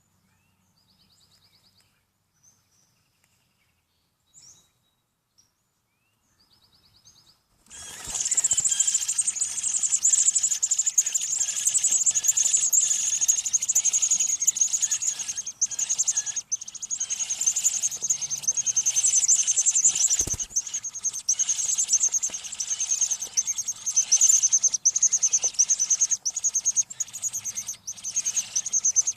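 American robin nestlings giving high-pitched begging peeps. A few faint chirps come first, then about a quarter of the way in the whole brood breaks into a loud, continuous, rapid chorus, the way nestlings beg when a parent arrives with food. There is one low thump about two-thirds of the way through.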